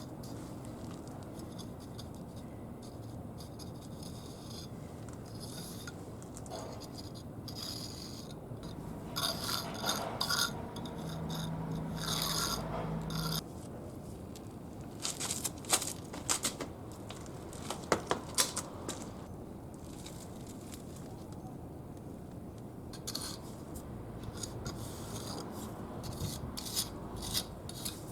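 Wet mortar being scraped and smoothed into the joints between bricks with a hand tool: a long run of irregular rubbing, rasping strokes, with a cluster of sharper clicks partway through.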